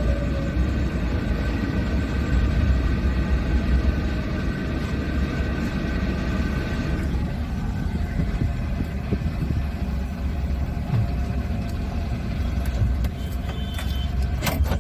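Car interior noise while driving: a steady low engine and road rumble, with a steady whine of several tones that stops about seven seconds in. A sharp click near the end.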